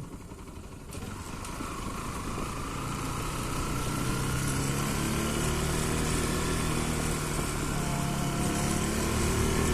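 Single-cylinder engine of a Bajaj Pulsar NS 200 motorcycle pulling under way, rising steadily in pitch and loudness as it accelerates, with wind noise.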